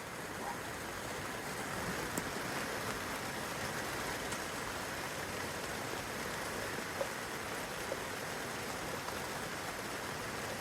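Steady rainfall on a young fruit tree's leaves and the grass below, an even hiss with a few faint single drop ticks.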